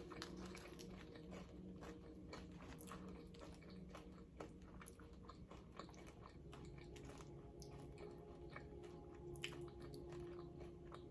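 Faint close-up chewing and crunching of tortilla-chip nachos, many small crunches. A child's sleep soundscape plays faintly and steadily in the background.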